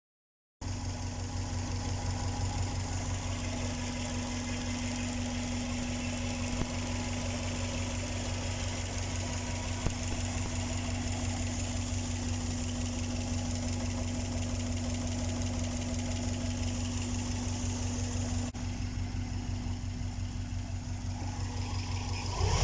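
Subaru EJ207 turbocharged flat-four engine idling steadily, starting about half a second in after a moment of silence.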